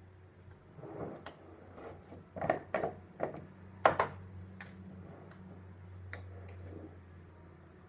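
A run of light knocks and clicks of small hard objects being handled, about a dozen in a few seconds, the sharpest about four seconds in, over a steady low hum.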